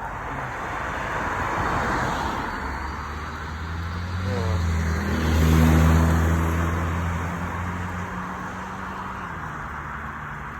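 Road traffic passing: tyre and road noise swells about two seconds in. Then a large vehicle's engine hums close by, loudest around six seconds in, before fading away.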